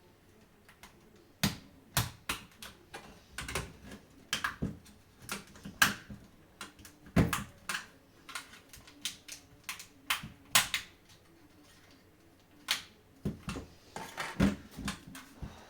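Irregular sharp clicks and taps of hard plastic and small tools as a DualSense controller is handled and worked open, coming one to three a second with short pauses.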